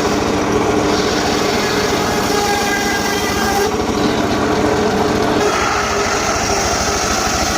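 Small engine-driven saw running steadily under load while cutting gmelina wood, its pitch wavering as the cut goes on.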